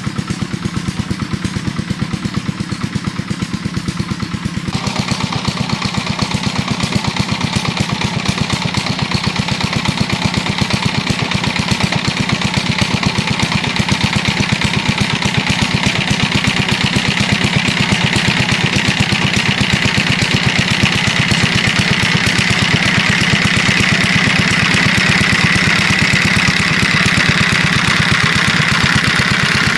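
Small engine running steadily with an even, rapid pulse. About five seconds in, a rushing mechanical noise joins it and grows louder toward the end.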